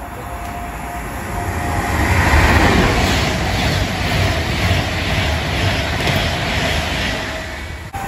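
An Avanti West Coast express train runs through the station at speed without stopping. Its rushing noise builds over the first two seconds, stays loud as the carriages pass close by, and cuts off suddenly just before the end.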